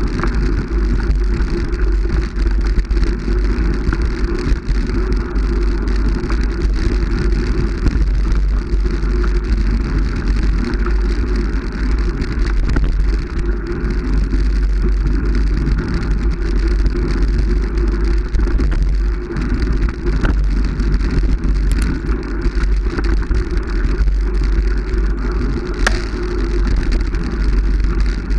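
Continuous noisy rumble of a moving vehicle with heavy, steady low buffeting like wind on the microphone, and no distinct events apart from a couple of faint clicks near the end.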